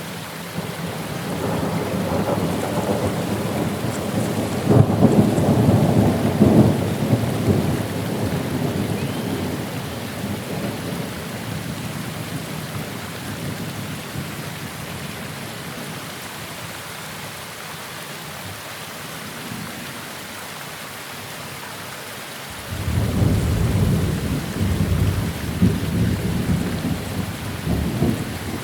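Steady rain with two long rolls of thunder: the first builds about a second in, peaks a few seconds later and fades away; the second breaks in suddenly near the end and rumbles on.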